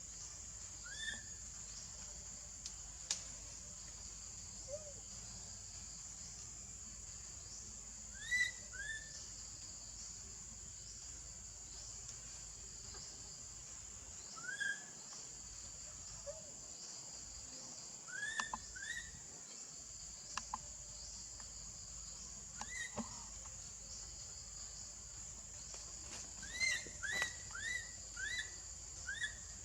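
A baby monkey crying in short, high-pitched squeaks, each rising then falling in pitch, coming singly every few seconds and then in a quick run of about six near the end. Crickets or other insects drone steadily underneath.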